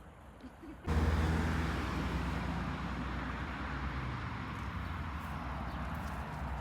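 Motor vehicle going past on a road: engine hum and tyre noise come in abruptly about a second in, then slowly ease off.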